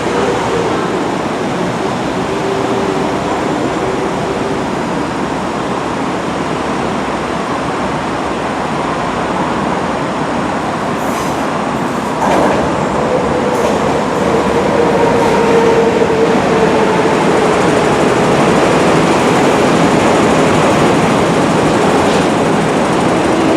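Chinese-built MTR metro train running, a steady rumble of wheels on rail with a thin motor whine over it. It gets suddenly louder about halfway through, and the whine then sinks slightly in pitch.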